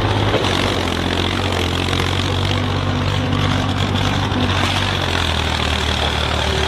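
Tractor engine running steadily with a heavy, noisy rumble; the engine note shifts lower about five seconds in.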